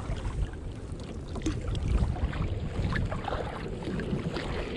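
Kayak paddling: the paddle blades dip and splash with irregular small drips and ticks of water, over a steady low rumble of wind on the camera microphone.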